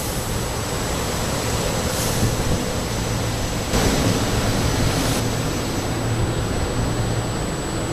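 Electric commuter train at the station platform: a steady low hum under a constant rushing noise, which gets a little louder about four seconds in.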